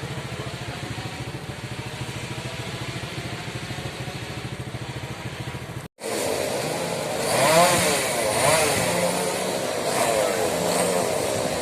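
A small engine running with a fast, even beat; after a sudden cut about six seconds in, louder engine noise whose pitch rises and falls.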